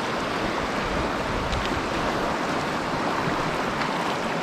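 Mountain stream flowing over gravel and rocks: a steady rush of water.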